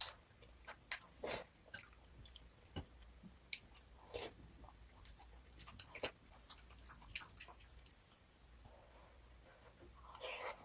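Close-miked chewing and biting: a person crunching food, with irregular crisp clicks and crunches between quieter chewing.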